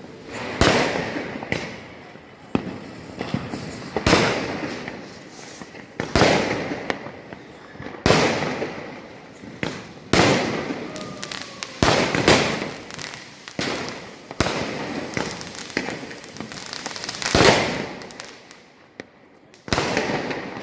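Firecrackers going off one after another: about a dozen loud bangs, one every second and a half to two seconds, each fading out over about a second.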